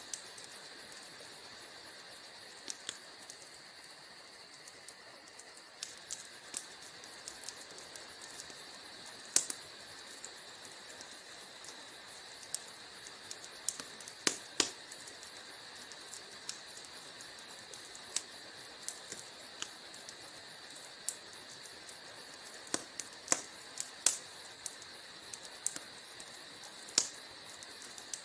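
Wood fire in a fireplace crackling: irregular sharp pops and snaps over a steady high hiss, with a few louder pops about 9, 14, 24 and 27 seconds in.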